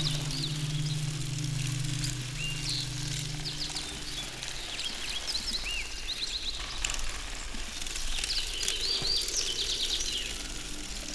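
Small birds chirping and twittering in quick trills over a soft forest ambience, with a low steady hum that fades out about four seconds in.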